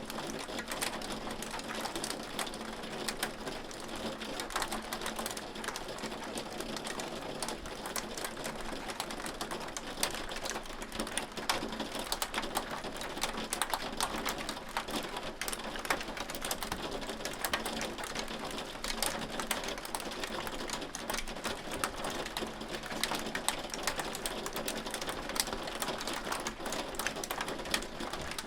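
Hail falling steadily: a dense, fast patter of countless small ticks from hailstones striking, even throughout.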